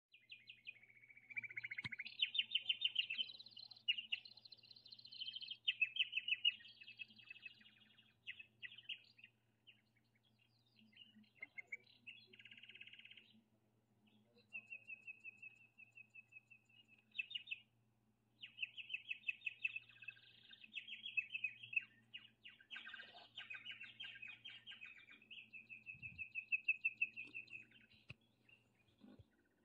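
Small songbirds chirping and singing in phrases of rapid high trills, broken by short pauses, with two longer held whistled notes in the second half, over a faint steady low hum.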